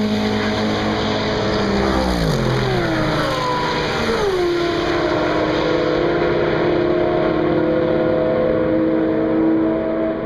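Fast car passing at high speed on a race circuit. Its engine note drops in pitch a few times over the first four seconds as it goes by, then settles into a steady drone.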